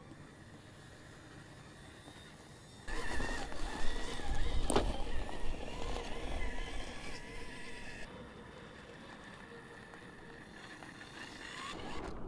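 1/10-scale RC crawler's electric motor and geared drivetrain whining under load as it climbs, starting about three seconds in, the pitch wavering with the throttle, with one sharp knock about five seconds in; it eases off after about eight seconds.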